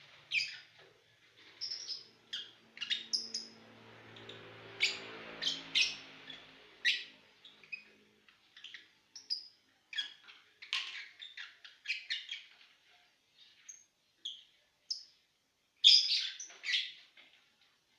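Lovebirds chirping: many short, high calls in irregular bursts, loudest near the end. A faint low hum sits underneath for the first several seconds.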